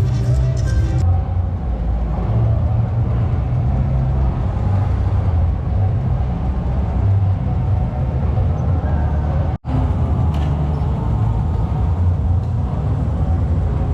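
Car engines running at low speed as cars move, a steady low drone that drops out briefly about two-thirds of the way through.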